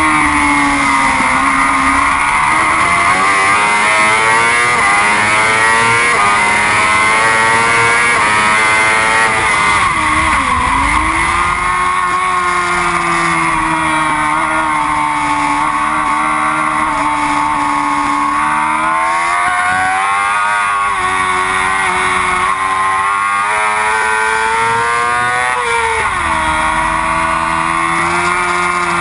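Yamaha R6 sport bike's inline-four engine at racing revs, the pitch climbing through the gears and dropping sharply several times as the rider shifts and brakes for corners.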